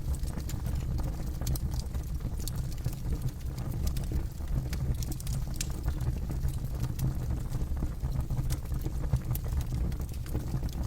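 Campfire burning, with a steady low rumble and frequent sharp crackles and pops of burning wood.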